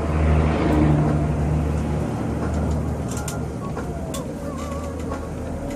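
Scania bus engine running, heard from on board, its low drone swelling over the first couple of seconds and then settling to a steady run.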